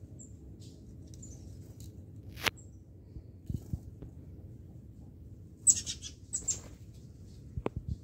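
Small birds chirping in thin, high squeaks, loudest in a cluster just past the middle, with a few sharp clicks, one about two and a half seconds in and two near the end, over a low steady hum.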